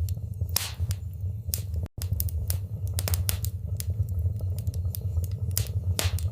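Wood fire crackling in a fireplace: irregular sharp pops and snaps over a steady low rumble of flames. The sound cuts out for an instant about two seconds in.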